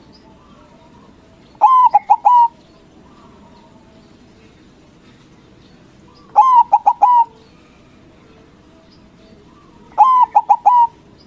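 White zebra dove (perkutut) cooing: three short phrases of about four quick staccato notes each, repeated roughly every four seconds.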